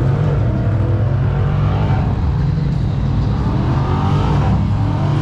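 Car engine held at high revs during a burnout, a loud, steady drone that does not rise or fall.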